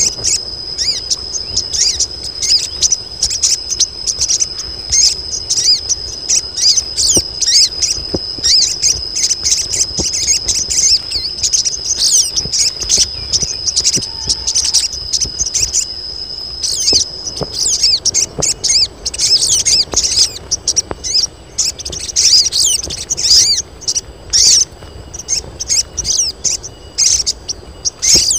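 A group of female crimson sunbirds calling in a dense stream of high, rapid chirps. A steady high-pitched tone runs underneath and stops about two-thirds of the way through.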